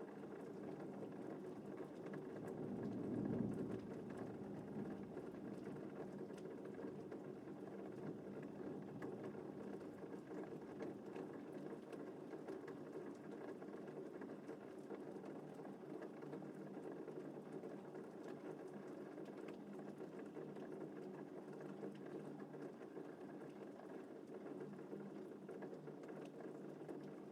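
Steady rain falling, with a brief low rumble of thunder swelling and fading about three seconds in.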